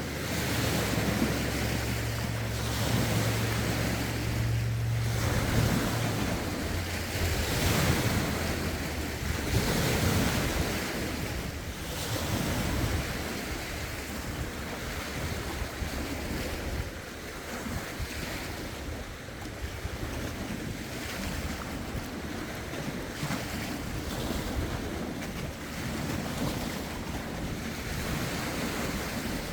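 Lake waves lapping and splashing against the shore in a steady rhythm, with gusty wind buffeting the microphone.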